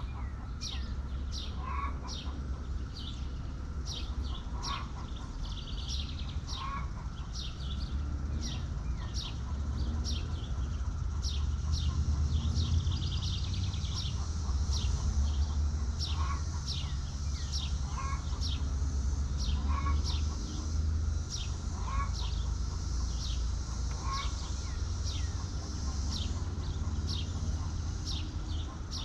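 Birds chirping over and over in short, high, falling notes, about one or two a second, with chickens clucking at intervals of a couple of seconds, over a steady low rumble.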